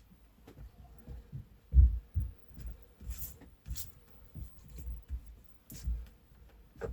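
Hands working on something: irregular soft low thumps and knocks, with a few short scraping hisses about three seconds in, again a little later, and near the end.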